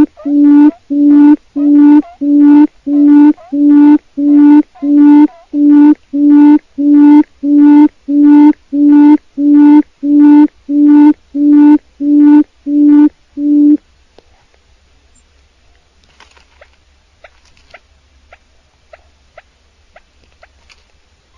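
Wild quail (chim cút rừng) calling: a steady series of low hooting notes, nearly two a second, that stops about two-thirds of the way through. Afterwards only faint scattered ticks and chirps.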